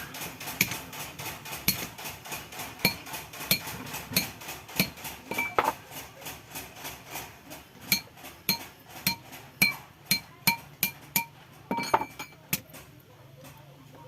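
Blacksmith's hammer striking iron on an anvil while forging a gancu hook, a steady run of blows about two a second, each with a bright metallic ring. The blows stop about twelve seconds in.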